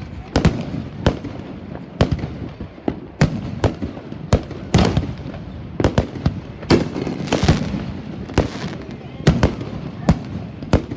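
Fireworks going off in a rapid, irregular series of sharp bangs, about two a second, with crackling in between.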